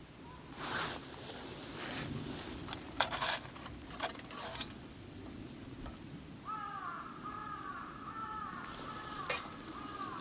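Scattered sharp clicks and rustles, then from about six and a half seconds a bird calling in a quick run of repeated, arched notes.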